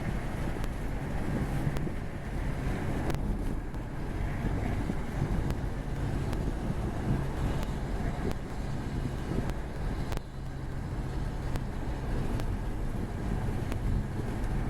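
Steady road and engine rumble inside a moving car's cabin at about 45 mph, with some wind noise.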